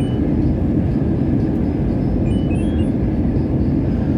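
Steady low rumble of airliner cabin noise: jet engines and airflow heard from inside the passenger cabin.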